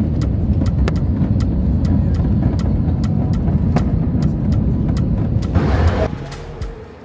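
Inside an airliner cabin, a loud, steady low rumble as the plane rolls along the ground, with a string of sharp knocks every fraction of a second. The rumble cuts off about six seconds in.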